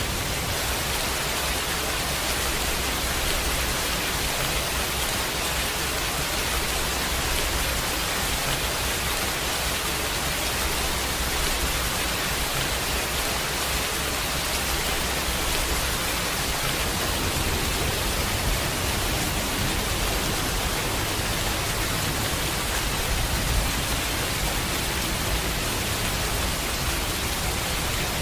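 Steady rain, a dense, even hiss with no single drops standing out, over a low rumble that grows slightly stronger past the middle.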